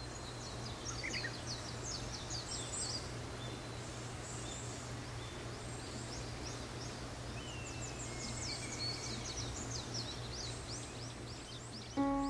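Several birds singing and chirping in quick repeated high phrases over a steady low hum of forest ambience. Piano music comes in right at the end.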